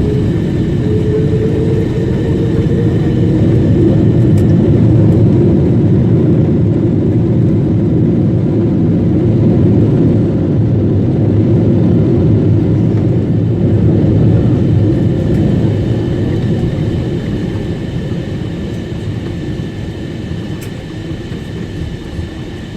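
Cabin sound of a Boeing 777-300 on its landing roll after touchdown: a loud roar of the engines and runway rumble that builds over the first few seconds, holds, then fades steadily as the airliner slows.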